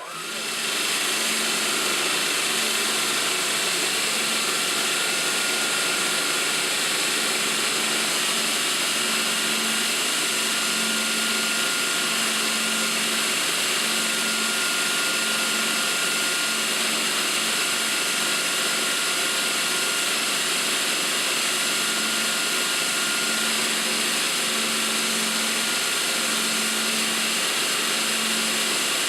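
Burr King belt grinder with a 120-grit abrasive belt starting up, reaching full speed within the first second, then running steadily. The motor and belt give a constant loud hiss over a faintly pulsing hum.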